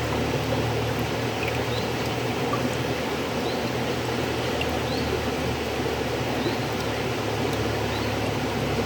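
River water flowing steadily, an even rushing noise. Faint short high chirps recur about once a second over it.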